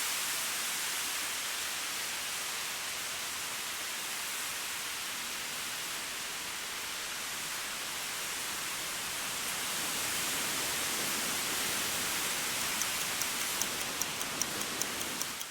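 Wind blowing: a steady rushing hiss that swells slightly in the second half. A clock ticking comes in faintly over it near the end.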